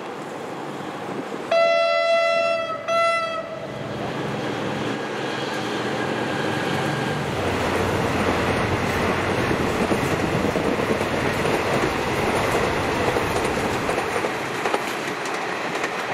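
A General Electric CM22-7i diesel-electric locomotive sounds its horn about two seconds in, one longer blast and a short one, then the train runs past, its engine and the carriage wheels on the rails building to a loud, steady rumble.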